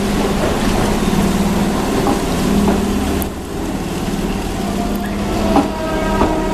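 Keihan 1000 series electric commuter train running out of the station, its wheels and traction motors giving a steady hum over a rolling rumble.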